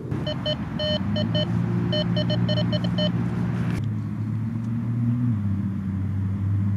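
A metal detector giving quick short beeps, about a dozen in two runs over the first three seconds, over a low steady hum that shifts in pitch a couple of times.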